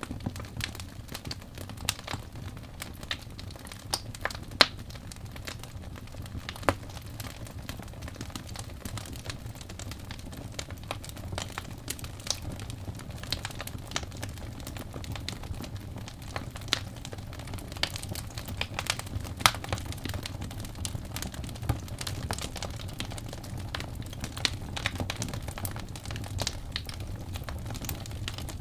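Wood fire burning with a steady low rumble and irregular crackles and snapping pops, a few louder sharp pops among them.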